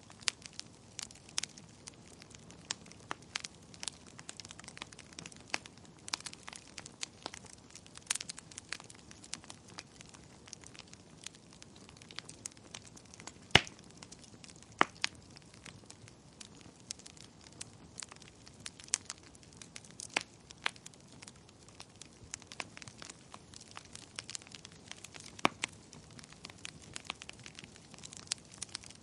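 Wood fire burning in a fireplace, crackling and popping irregularly over a soft hiss, with one louder pop about halfway through.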